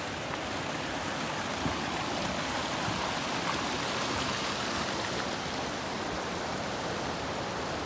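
Mountain stream rushing steadily over rocks, an even churning hiss of fast water.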